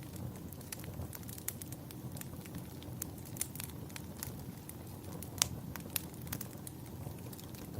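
Campfire burning: a steady low rush of flames with frequent sharp crackles and pops of burning wood, one louder pop about five seconds in.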